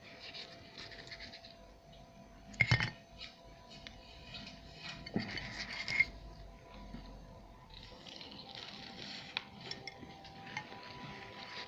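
Dishes and cutlery being handled: scattered clinks and rustling, with a sharp clatter about two and a half seconds in.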